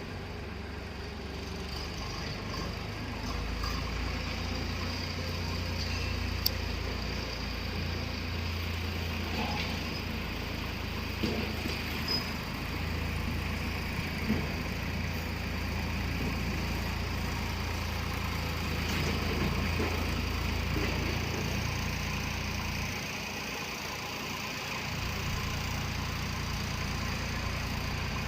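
Tractor engine running steadily under load as it pulls a land leveler, with a few short sharp knocks in the middle stretch.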